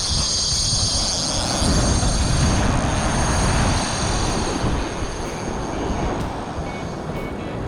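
Surfcasting reel's drag whining as line is pulled off by a running fish, a high squeal strongest at first that fades out about halfway through. A steady rush of wind and surf runs under it.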